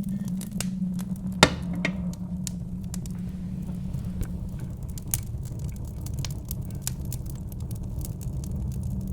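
Wood fire in a fireplace crackling, with scattered sharp pops and one loud pop about a second and a half in, over a steady low rumble of wind.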